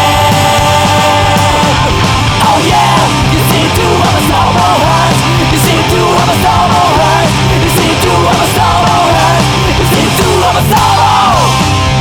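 Melodic punk / hard rock song playing loud: distorted electric guitars, bass and drums with steady cymbal hits, and a melody line bending up and down over them.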